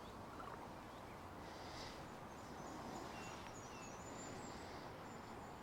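Steady rushing of river water, with a few faint, short, high bird chirps through the middle.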